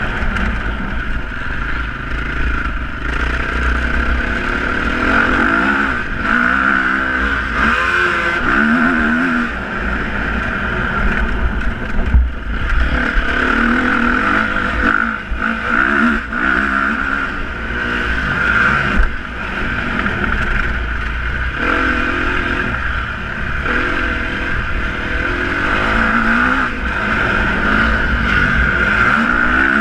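Motocross motorcycle engines revving, the engine pitch rising and falling again and again over a steady low rumble.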